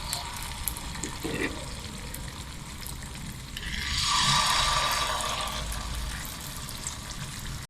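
Unniyappam batter sizzling as it is spooned into hot ghee in the cups of a paniyaram pan. The hiss swells again about three and a half seconds in as more batter goes in, with a few light clicks.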